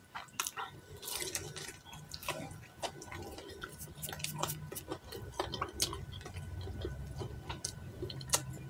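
Close-up mouth sounds of someone chewing a piece of deep-fried fish: many small irregular wet clicks and lip smacks. A faint steady low hum sits underneath.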